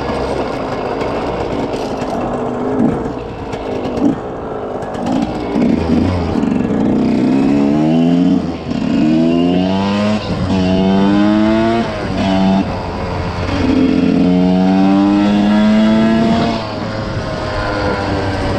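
Single-cylinder two-stroke engine of a 2006 Suzuki RM125 dirt bike revving hard. Its pitch climbs in several long runs, and each run drops back sharply before the next one starts.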